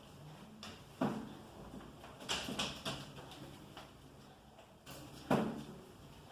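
A styrofoam tray and sheet of paper being handled: a few light knocks and rustles, about a second in, around two and a half seconds in, and once more near the end.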